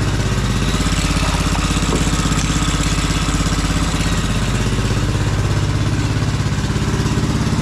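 Dirt bike engine idling steadily, with a fast, even pulse, as it warms up through a heat cycle after an oil change.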